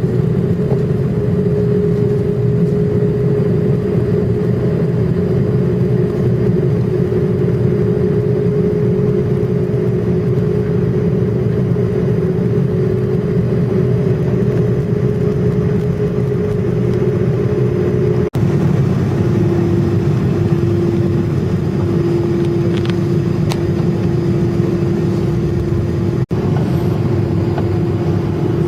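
Steady, loud drone of noise inside an airliner cabin, with a constant hum tone riding on top. It cuts out for an instant twice, about two-thirds of the way through and near the end, and after the first break the hum sits a little lower.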